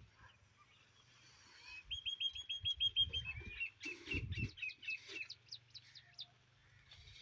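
A songbird gives a quick run of repeated high chirps, about six a second, starting about two seconds in and lasting about three seconds. Around four seconds in, a metal bucket scrapes briefly through a heap of threshed wheat grain.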